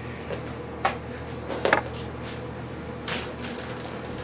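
Three light clicks and knocks of handling on the opened wire recorder chassis, the middle one with a brief metallic ring, over a steady low hum.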